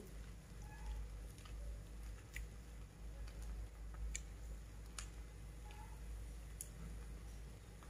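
Peanuts and egg frying in a pan over a gas flame: faint, sparse crackles and ticks every second or so, over a low steady rumble.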